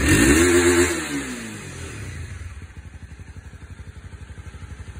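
Honda CB250R's single-cylinder engine through its stock exhaust: a throttle blip that rises and falls back over the first two seconds, then settles into a steady idle.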